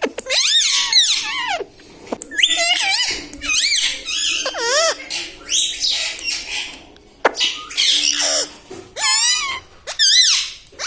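Parrot vocalising in a quick run of high, warbling calls with wavering pitch and short breaks between them, in the way a talking parrot chatters and mimics words.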